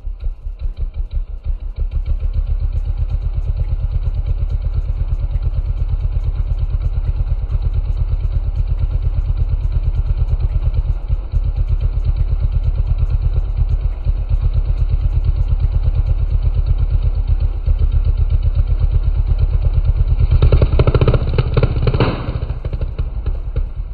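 Mini bike engine running loud through an open racing exhaust with no spark arrestor, idling at a fast steady pulse while it warms up from a cold start. About 20 seconds in it is revved briefly for a couple of seconds, then drops back to idle.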